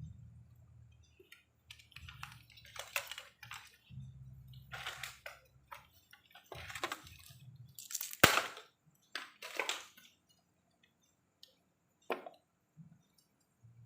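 Irregular scraping, rustling and handling noises from work on electronic parts, with a sharp click about eight seconds in and a low hum that comes and goes.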